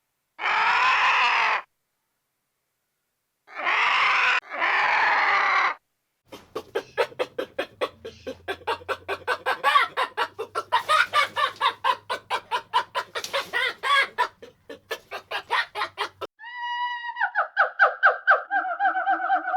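A string of separate barnyard animal calls with hard cuts between them: three short calls in the first six seconds, then about ten seconds of rapid chicken clucking, then a long, slightly falling pitched call near the end.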